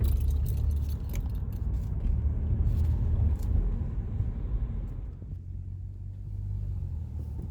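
A car's engine and road rumble heard from inside the cabin while driving, a steady low drone that eases off about five seconds in.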